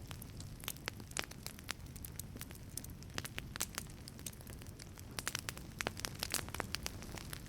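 Wood fire burning in a wood-fired pizza oven, crackling with irregular sharp pops over a low steady rumble of the flames; the pops come thickest from about five seconds in.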